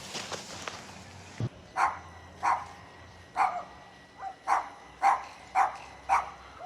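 A dog barking repeatedly: about nine short barks, roughly two a second, starting about two seconds in.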